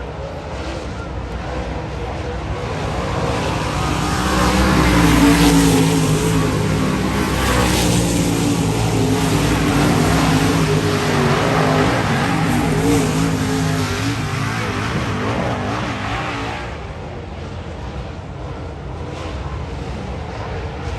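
Dirt-track modified race cars running on the oval, several engines revving and passing together. The sound builds a few seconds in, stays loud through the middle, and eases off near the end.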